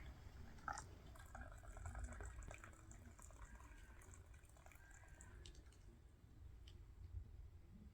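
Faint liquid dripping and pouring, with a few light clicks over a low background rumble.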